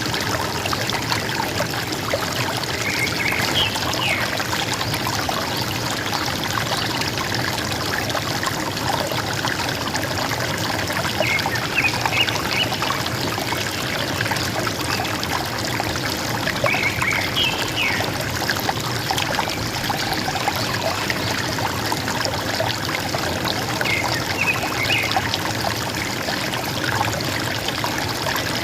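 River water gurgling and trickling steadily, with a bird giving short chirping calls four times over it.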